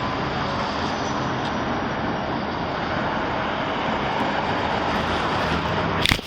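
Steady, even vehicle noise picked up on a police body camera microphone, with a single sharp knock about six seconds in.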